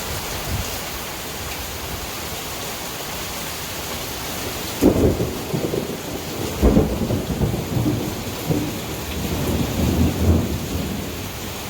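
Thunderstorm: heavy rain falling steadily, with two loud thunderclaps about five and seven seconds in, followed by rolling rumbles of thunder.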